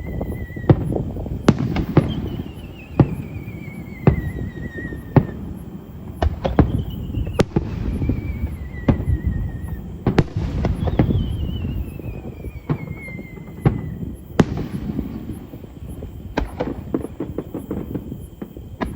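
Fireworks display: a rapid run of sharp bangs over a continuous low rumble, with a long falling whistle every three to four seconds.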